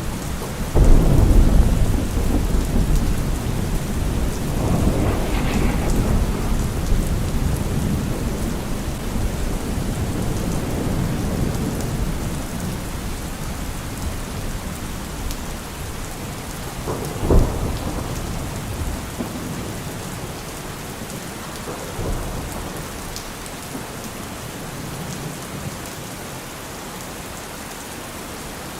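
Heavy rain falling steadily on a car roof, with thunder: a loud rumble about a second in, another around five seconds, a sharp crack about two-thirds of the way through, and a fainter clap later, the rumbling dying down toward the end.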